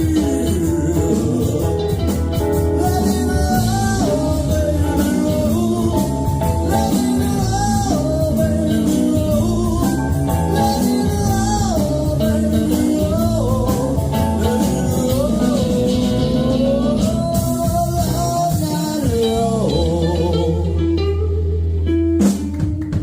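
Live band playing a blues-style song, with guitar and bending melody notes over bass and drums. Near the end it settles on a held low note and the level briefly dips.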